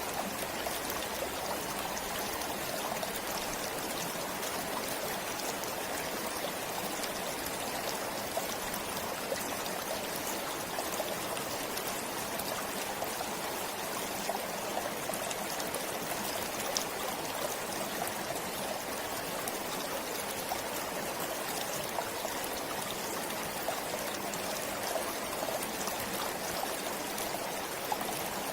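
A forest stream flowing steadily, with water splashing and trickling over stones as a constant rush.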